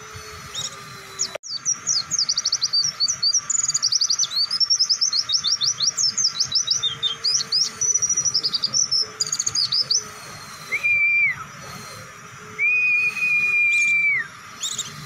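White-eye (pleci) song: a long, fast run of high chirping and sweeping notes lasting about eight seconds, followed by two long, even whistles.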